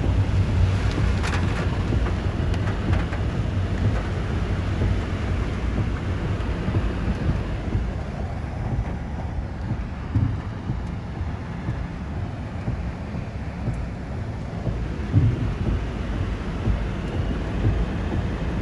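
Typhoon wind and heavy rain, with gusts buffeting the microphone in a steady low rumble.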